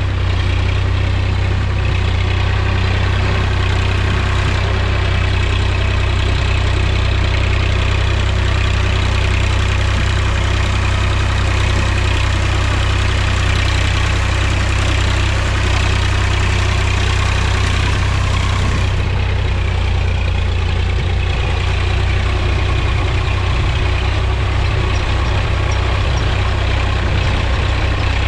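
Mahindra tractor's diesel engine running steadily with a deep, even rumble.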